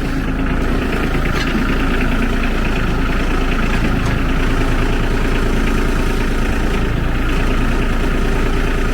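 Ford 1520 tractor's small three-cylinder diesel engine idling steadily.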